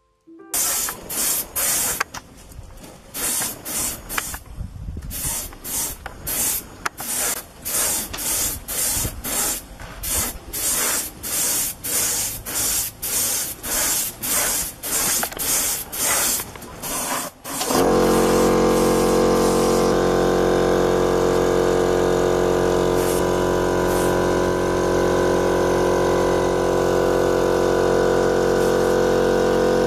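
Paint spray gun hissing in short, evenly repeated bursts, about one and a half a second. About 18 seconds in, the bursts give way to a loud, steady motor hum.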